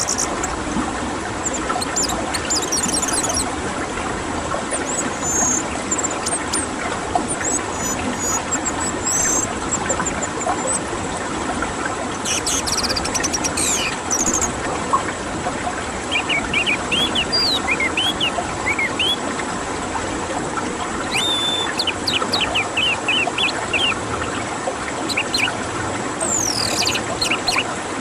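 Orange-headed thrush song: quick chirps, trills and whistled glides in short bursts every few seconds. Under it runs a steady rushing water sound, as in birdsong therapy recordings meant to coax a silent bird into singing.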